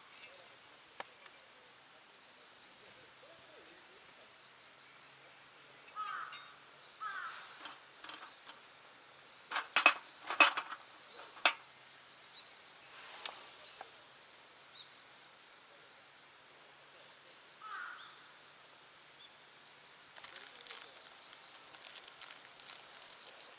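Outdoor ambience with a steady high insect drone, a few short chirping calls, and a cluster of sharp knocks or snaps about ten seconds in; small irregular crackles near the end.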